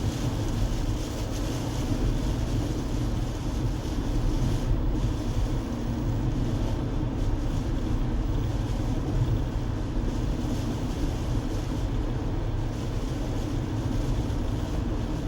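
Steady low rumble of a car driving, tyre and engine noise heard inside the cabin, with a light wind-like hiss on top.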